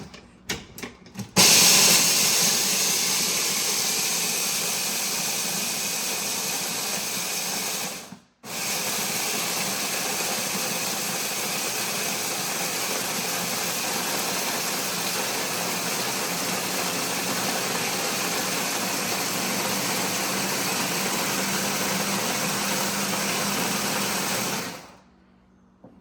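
Electric blender motor running steadily while grinding dry kibble for puppy mush. It runs for several seconds, stops briefly, then runs again for a long spell before cutting off.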